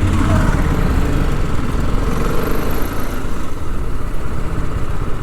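Motorcycle engine running while riding, a steady low rumble with no breaks, from what is likely a TVS Apache RR 310 single-cylinder.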